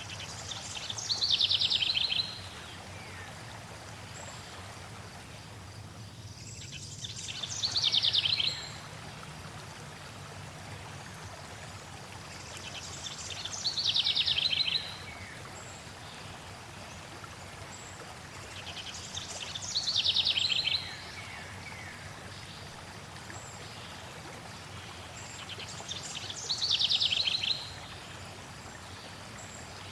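Flowing stream water running steadily, with a songbird singing the same short, trilled phrase that sweeps downward, five times about six seconds apart.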